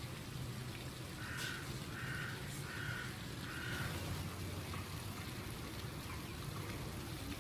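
A crow cawing four times in quick succession, about one call every 0.7 seconds, over a steady low rumble and hiss of background noise.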